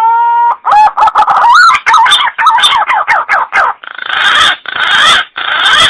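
Green pigeon (punai) calling: a whistle rising and levelling off, then a quick run of warbling whistled notes, ending in three harsh rasping bursts.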